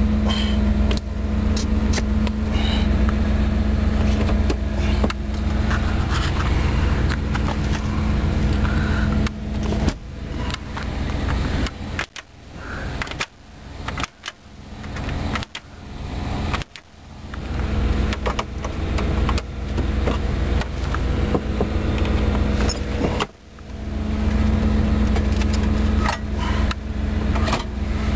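1990 Chevrolet Suburban idling, a steady low hum heard inside the cabin. Through the middle part the hum drops out again and again, broken up by irregular clatter and handling noise.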